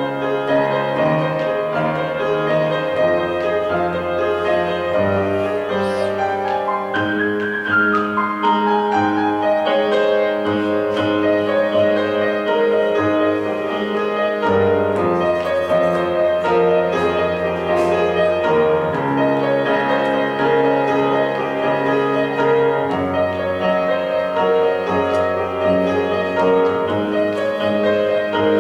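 Piano playing a slow classical-style piece, sustained chords changing every few seconds, with a descending run of notes about seven seconds in.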